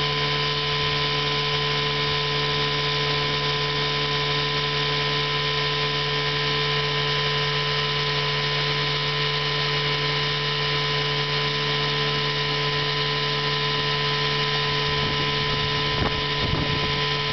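1955 Johnson CD-12 5.5 hp outboard motor, a two-cylinder two-stroke, running at a steady speed. It gives an even, unchanging drone.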